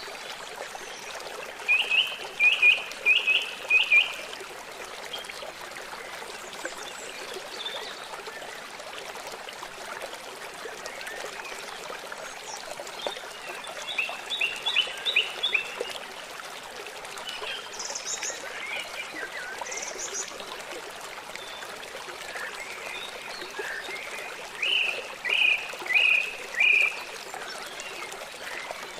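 Steady rush of a flowing river with birds calling over it: a loud phrase of four or five quick, clear notes comes three times, near the start, about halfway and near the end, with a couple of short high calls in between.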